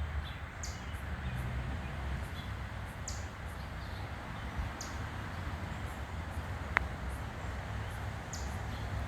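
Backyard ambience: a bird gives four short, high chirps a couple of seconds apart over a steady low background rumble. One sharp click sounds about seven seconds in.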